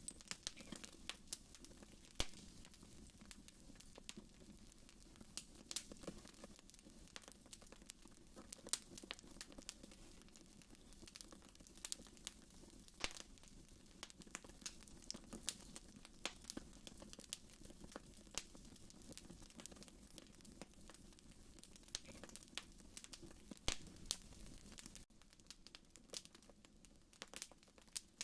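Wood fire burning in a fireplace, crackling faintly with irregular sharp pops and snaps over a low, steady hiss of flame.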